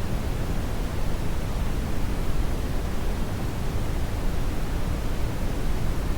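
Brown noise: a steady, even rushing hiss, deepest and strongest in the low end and fading in the highs, with no changes or events.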